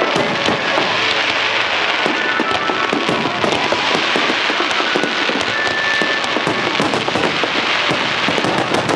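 Fireworks display in full barrage: dense, continuous crackling and popping of many shells at once, with no break.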